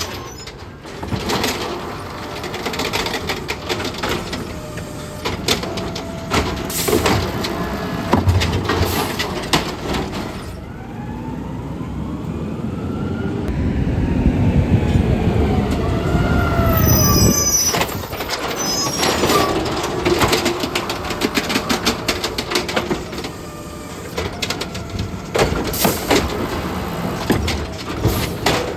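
Garbage truck collecting: repeated clattering and banging, with a stretch in the middle where the engine and hydraulics rise in a whine and fall again before the clattering resumes.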